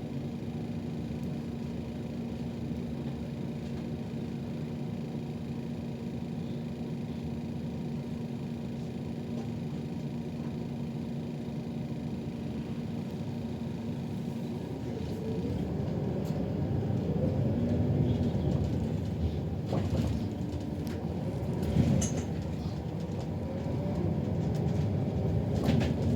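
Inside a city bus: a steady engine rumble with a constant hum, then, about halfway through, it grows louder as the engine note rises and falls, the bus getting under way. A few sharp knocks or rattles come near the end.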